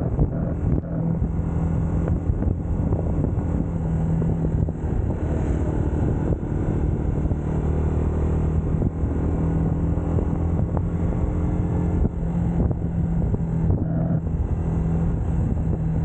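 UM Scrambler X motorcycle engine running at a steady cruise, with only slight changes in pitch, over wind and road noise.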